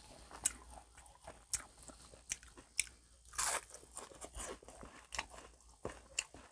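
A person chewing crispy fried tamban (sardinella) close to the microphone: irregular crisp crunches as the fried fish and its bones break, with one longer, louder crunch about halfway through.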